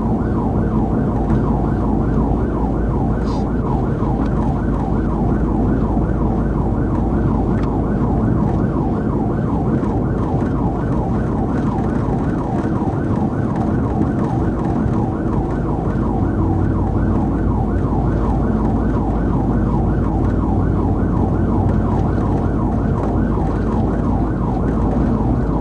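Police car siren on a fast yelp, rising and falling about three times a second, over the steady engine and road noise of the pursuing patrol car at speed.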